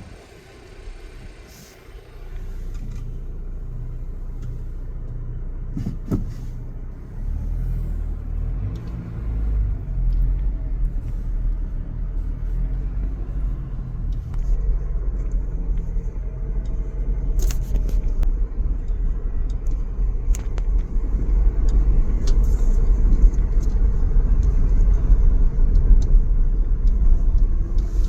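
Motor vehicle engine running: a low rumble that sets in a few seconds in and grows louder and steadier from about seven seconds on.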